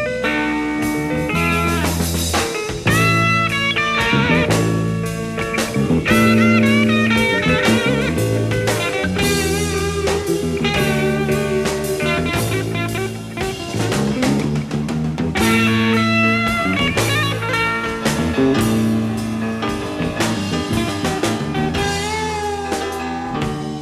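Live blues-rock band playing, with an electric lead guitar bending notes over bass, drums and keyboards; a broadcast recording heard from cassette tape.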